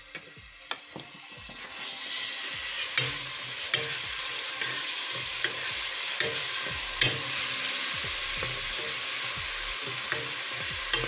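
Chopped garlic sizzling in hot olive oil in a stainless steel pot, stirred with a wooden spoon that scrapes and taps against the pot. A few light clicks come first, and the steady sizzle sets in about two seconds in.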